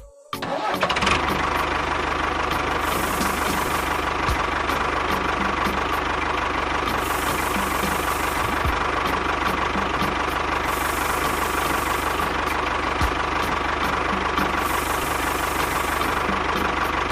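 An engine running steadily with a regular knocking beat, cutting in abruptly just after the start.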